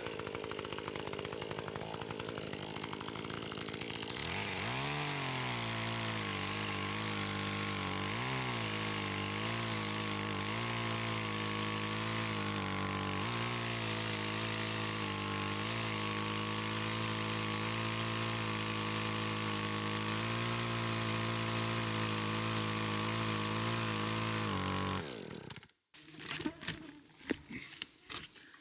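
Small petrol engine running. It rises in speed about four seconds in, wavers up and down a few times, then runs steadily until it shuts off suddenly about 25 seconds in. Faint clicks follow.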